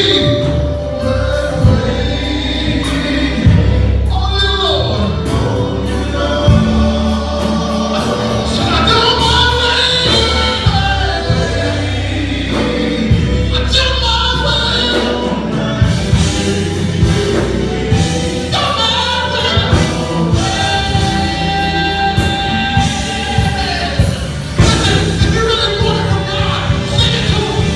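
Gospel music with a choir singing over a full band with a steady beat.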